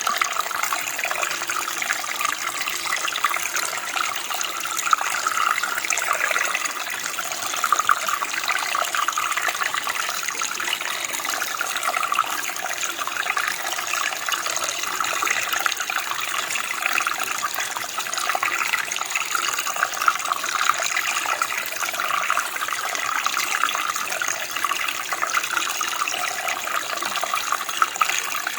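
Running water flowing and splashing steadily, a continuous bubbling rush with small irregular splashes.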